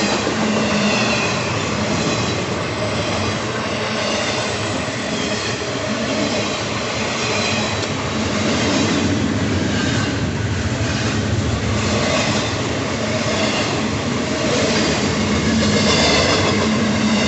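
Intermodal freight train cars rolling slowly past: steel wheels rumbling and clicking over the rails, with a faint high wheel squeal now and then.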